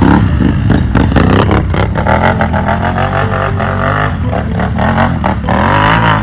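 ATV engine running and revving, its pitch wavering up and down over a steady low drone.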